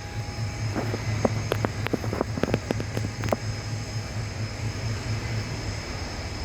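Footsteps of someone walking in sneakers, coming through as a quick, irregular run of sharp clicks over the first half, then stopping. Under them runs the steady low hum of an idling locomotive.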